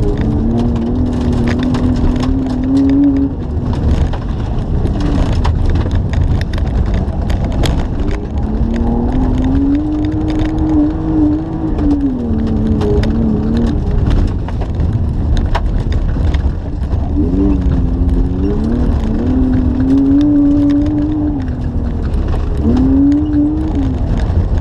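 BMW E36's engine heard from inside the cabin under hard driving, its pitch climbing and dropping several times through the gears, over a heavy rumble of tyres on gravel and ice. Loose stones tick sharply against the car's body throughout.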